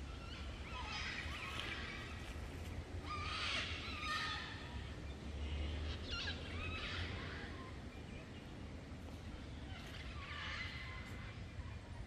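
Birds calling in short bursts of quick, warbling notes about four times, over a low steady rumble.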